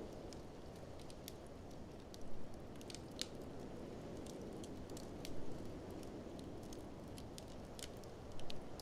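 Wood fire crackling and popping in a fireplace, with many small sharp snaps, over a steady low rush of blizzard wind. Short louder swells come about every three seconds.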